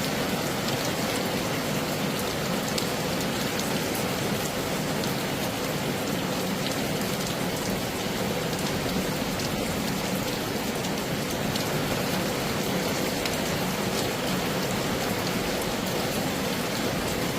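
Heavy rain falling steadily: a dense, even hiss with scattered sharp drop hits.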